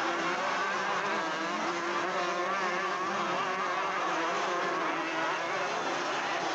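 Engines of several motocross motorcycles racing on the track, overlapping buzzes whose pitch keeps rising and falling as the riders rev and shift.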